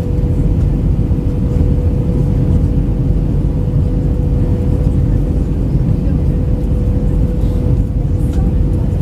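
Cabin noise inside an Airbus A319-112 airliner: a loud, steady low rumble from its CFM56 engines and the air rushing past the fuselage, with a thin steady tone over it.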